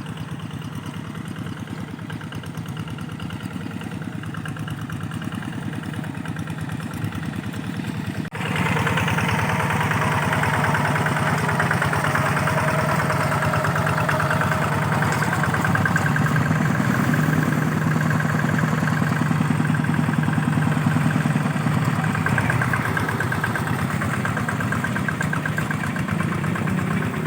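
Rice-field tractor engine running steadily. About eight seconds in it suddenly becomes louder and fuller, then runs on evenly.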